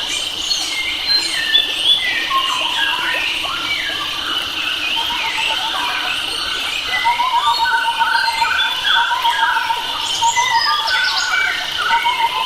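A chorus of many wild forest birds calling and singing at once, short chirps and whistles overlapping, over a steady high-pitched tone. About halfway through, a fast trill of rapidly repeated notes joins in.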